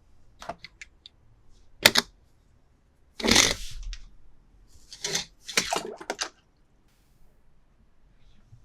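Hands unboxing and handling toy cars and their packaging: a series of sharp clicks and taps, a short rustle about three seconds in, and a quick cluster of clicks near the end.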